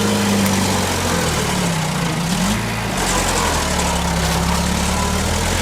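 Bulldozer's diesel engine running steadily, its pitch dipping briefly and coming back up about two seconds in.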